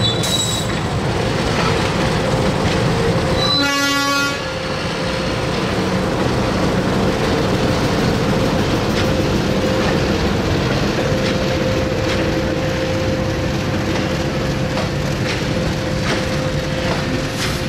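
Diesel locomotive running past and a freight train of bogie oil tank wagons rolling by, a steady rumble of engine and wheels on rail with clickety-clack from the wheels. A short horn blast sounds about four seconds in.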